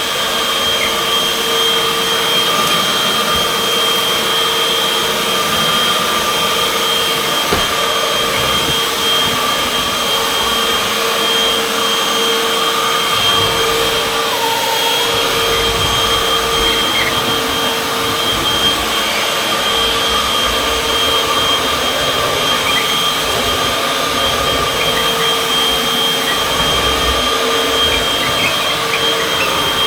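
Upright vacuum cleaner (model UH70605) running steadily with a high whine; about halfway through its motor pitch dips briefly. It keeps sounding as if it is getting stopped up, from the suction sealing against laminate floors.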